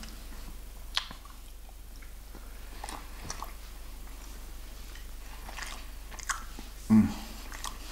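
Close-miked eating of KFC fried chicken: quiet chewing with a few sharp clicks of the lips and tongue spread through, and finger-licking. A short vocal sound comes near the end.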